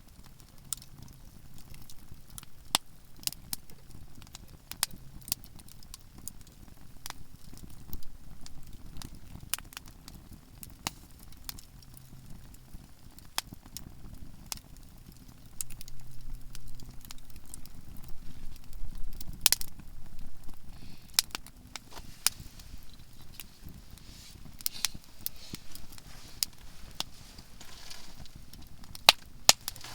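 Campfire of conifer firewood crackling, with frequent irregular sharp pops as the wood bursts, a few of them louder, over a low steady rumble of the flames.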